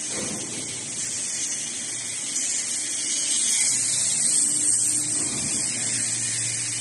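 Steady workshop machinery noise: a constant high hiss over a faint low hum.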